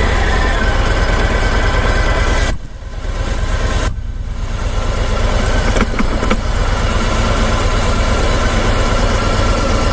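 Harley-Davidson Sport Glide's V-twin engine running steadily at low speed. About two and a half seconds in, the sound drops suddenly and comes back over the next second or so.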